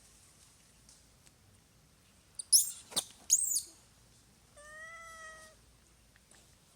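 Baby monkey calling: three shrill, very high-pitched squeals close together about halfway through, then one steadier, lower call about a second long.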